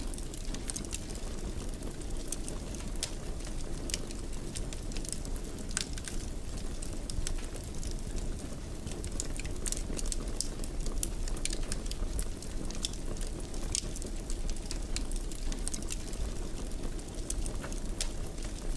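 Wood fire in a fireplace, burning with a steady low rumble and frequent irregular sharp crackles and pops.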